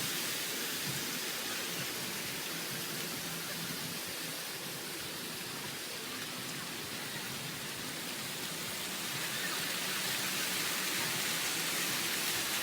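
Steady hiss of water spraying and splashing from ground fountain jets, easing a little in the middle and rising again near the end.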